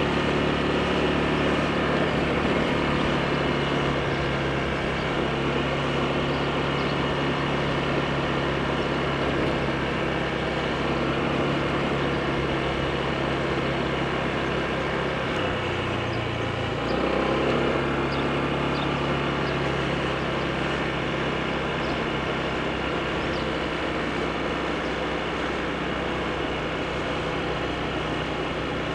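Honda PCX scooter's single-cylinder engine running steadily under way over a steady rushing noise; about halfway through, its note dips and then picks up again.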